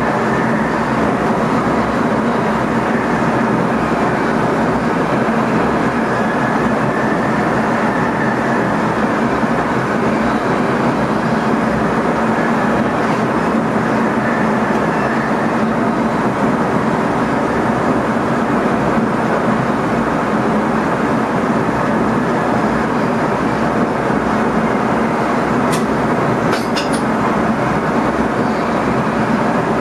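Steady running noise of an NS ICM electric multiple unit, heard inside the driver's cab: a continuous rumble of the train on the rails. A few sharp clicks near the end.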